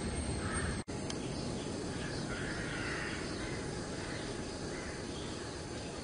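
A few bird calls, with harsh caws, over a steady outdoor background hiss. The sound drops out briefly about a second in.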